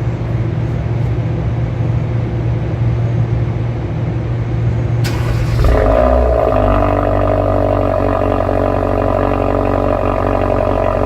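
Exhaust of a Hyundai Avante AD Sport's 1.6 turbo engine, fitted with an aftermarket variable valve exhaust, running steadily while still cold. About five seconds in, the tone changes abruptly to a slightly louder, higher drone, as when the exhaust valve switches.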